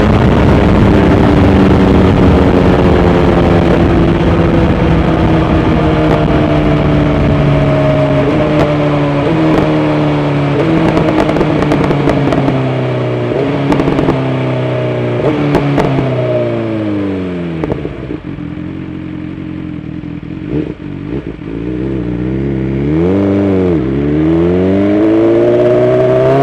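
BMW S1000XR inline-four with a full Akrapovic titanium exhaust, slowing through a series of downshifts, each blipping the revs up before they fall again, with sharp crackles on the overrun. It settles to low revs for a few seconds, gives a short rev, then accelerates with engine pitch climbing near the end.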